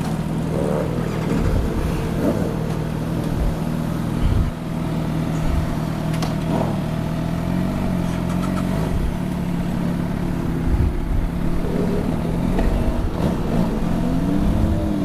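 Several motorcycle engines idling steadily, with revs rising and falling near the start and again near the end.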